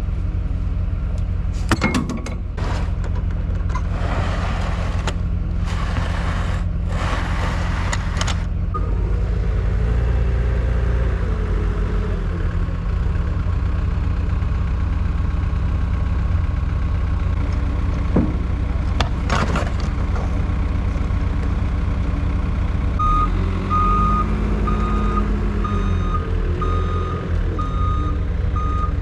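Skid steer's diesel engine running steadily, with rushing surges early on as it works, and its reversing alarm beeping steadily over the last several seconds.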